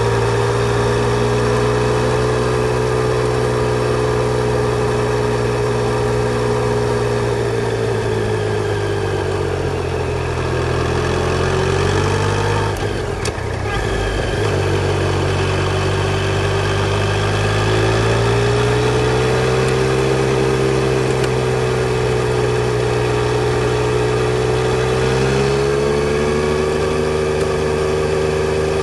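Yamaha Tracer 900 GT's inline three-cylinder engine running at steady revs, its note sagging about ten seconds in and breaking off briefly about thirteen seconds in, then rising again and holding steady.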